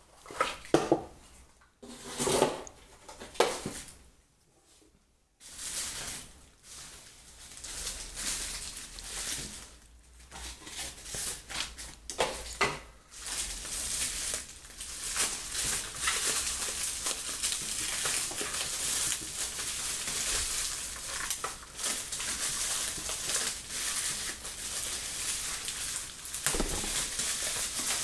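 Unboxing handling noise: scattered knocks and rustles of packaging and the speakers being handled, then, about halfway through, continuous crinkling and rustling of packaging.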